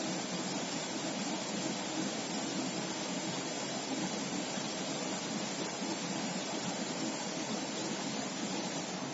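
Steady, even running noise of a CNC machine tool on a test floor, with no distinct strokes or changes.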